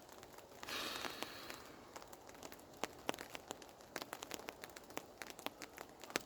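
Faint, irregular crackling and ticking from a nearby wood campfire, with rain falling on a tarp overhead. A brief soft rustling hiss comes about a second in.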